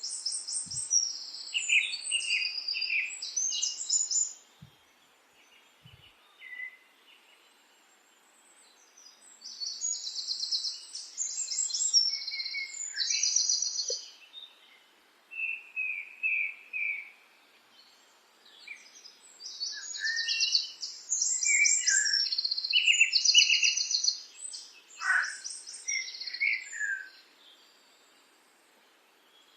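Songbirds singing in bouts of fast, high trills and chirps, with pauses of a few seconds between bouts.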